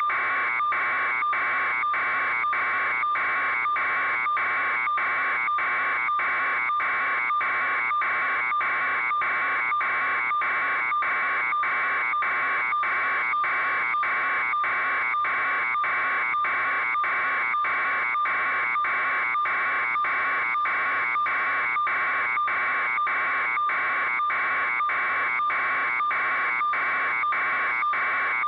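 Steady electronic alarm buzz, a constant tone pulsing evenly about twice a second without a break.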